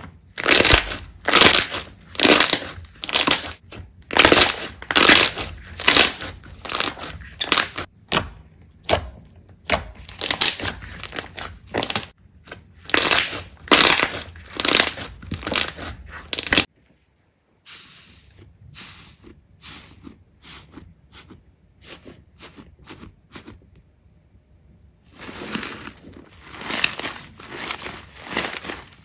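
Slime being squeezed and pressed by hand, close up, in repeated bursts about once a second. The sound stops abruptly a little past halfway, goes softer and sparser, then stronger bursts return near the end.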